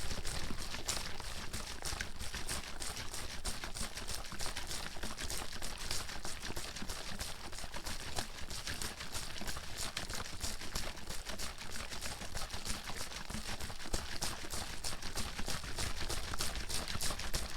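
Water bottle being shaken nonstop, the water sloshing and splashing inside it in a rapid, even stream of knocks.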